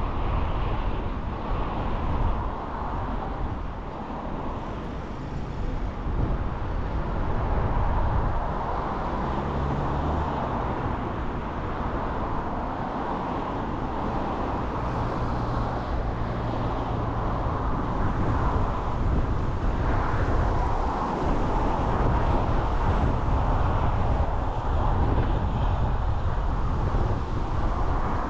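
A car on the move: a steady mix of road and tyre noise with a low engine hum.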